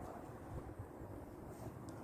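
Wind buffeting the microphone as a low, uneven rumble, with a faint click near the end.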